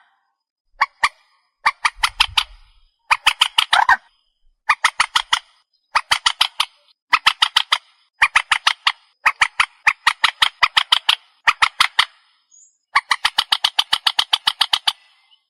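Recorded calls of the trích ré bird, played as a trapping lure: rapid harsh notes in short bursts, about one burst a second, with a longer run near the end.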